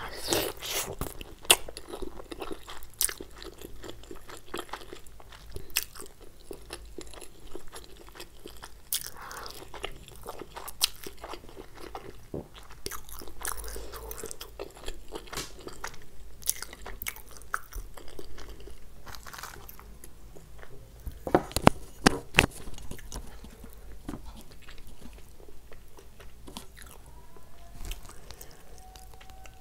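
Close-miked chewing of a soft steamed wheat vegetable-paneer momo: wet mouth sounds with many small sharp clicks and smacks, and a louder cluster of clicks about two-thirds of the way through.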